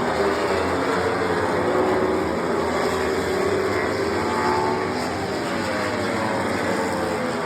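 1000cc four-cylinder MotoGP racing motorcycles at full race speed, several engine notes overlapping and gliding up and down in pitch as the bikes pass one after another.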